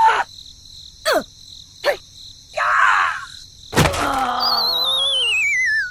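Cartoon sound effects: two quick falling zips, a short rushing burst, then a sharp thump about four seconds in, followed by a high wobbling whistle that slides down in pitch.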